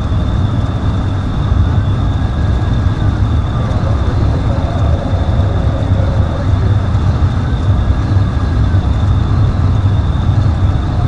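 Steady, loud low rumble of vehicle noise from police chase footage, with no change or sudden event through the stretch.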